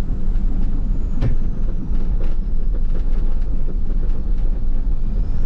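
Inside a vehicle cruising in fifth gear at a little over 40 km/h: a steady low engine and road rumble. There are a few short knocks, about a second in and again about two seconds in.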